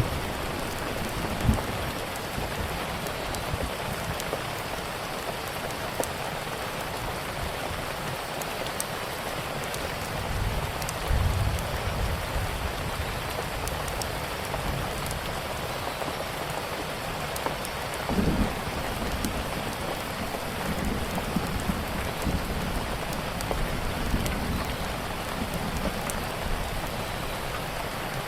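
Steady rain pattering, with faint scattered crackles of a wood fire and a few short low rumbles.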